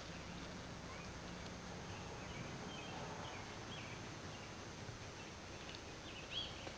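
Scattered faint bird chirps over a steady outdoor background hiss, with a clearer pair of chirps near the end.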